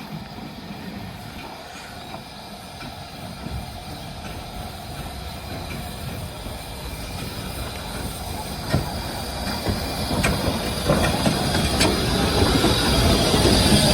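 Steam-hauled train running on the rails, growing steadily louder, with scattered sharp wheel clicks and a hiss building near the end.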